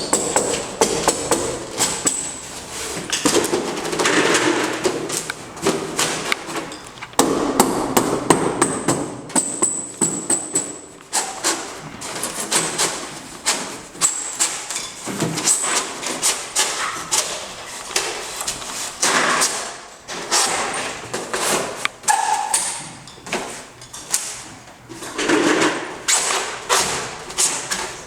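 Repeated knocks and thuds with some scraping as rigid foam insulation board is handled and tapped into a wall-stud cavity.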